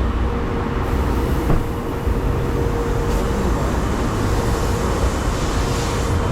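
Steady mechanical hum with a constant tone and a heavy low rumble.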